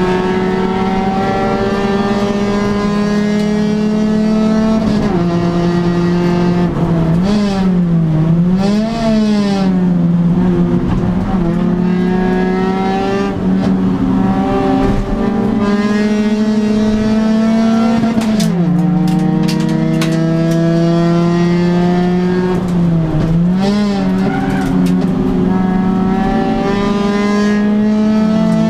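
1997 Honda Civic 1.5's four-cylinder engine heard from inside the stripped race car, running hard on track with revs climbing slowly in gear. The revs drop suddenly at upshifts about five seconds in and again about two-thirds through. Twice they dip and rise quickly, as on throttle-blipped downshifts when braking for corners.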